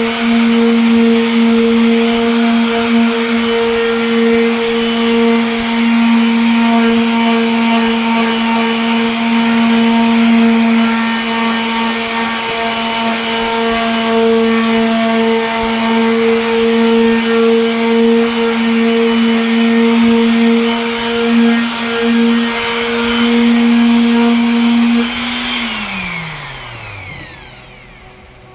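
Electric sander running at a steady speed with a constant whine, wet-sanding a headlight lens. About 25 seconds in it is switched off and the whine falls in pitch as the motor spins down.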